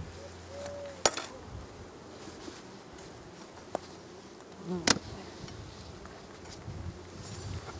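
Honey bees buzzing around an opened hive. A single bee drones past near the start, and two sharp clicks or knocks, the loudest sounds, come about a second in and about five seconds in.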